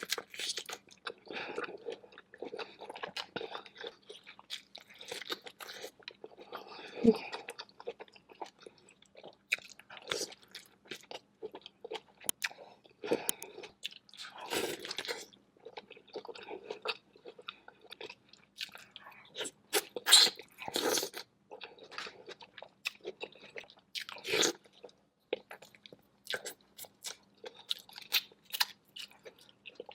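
A person eating king crab seafood boil close to the microphone, chewing and biting in irregular mouthfuls, with a few louder bites scattered through.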